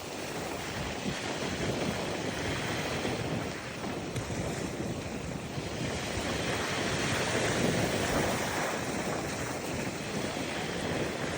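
Ocean surf breaking and washing up a beach, a steady rushing wash that swells louder about seven to eight seconds in, with wind buffeting the microphone.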